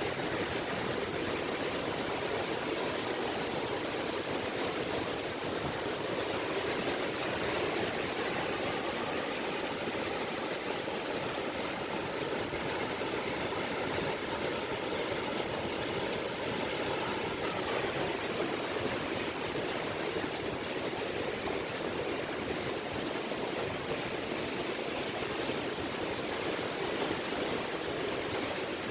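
Gentle sea ripples washing steadily on a beach, a continuous even wash of water. A faint steady hum sits under it from about a quarter of the way in to just past the middle.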